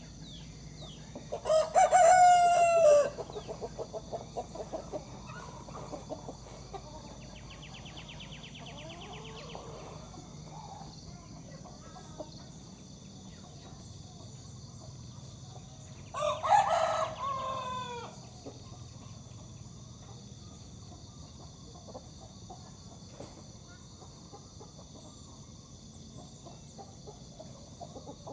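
Broiler rooster crowing twice, one long crow about a second and a half in and another about fifteen seconds later, with a run of short clucks after the first. A steady high insect chirring goes on underneath.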